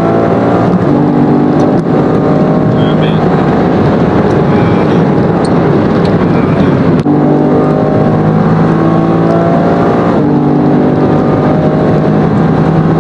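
Car engine running hard at high revs, heard from inside the cabin.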